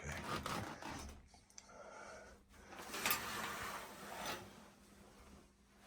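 Rubbing and knocking sounds in a small room, in three short spells, like a wooden door being pushed open.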